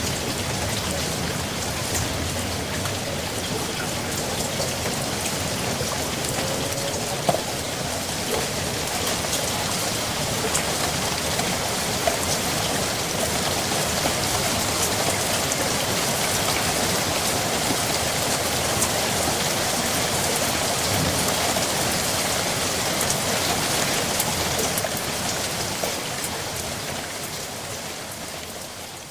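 Steady rain falling and pattering on surfaces, with scattered louder drops, fading out near the end.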